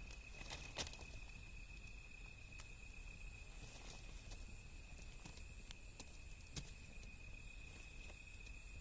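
Wood fire crackling, with scattered small pops and snaps of burning wood, the sharpest just under a second in and near the end. A steady high-pitched tone hangs behind it throughout.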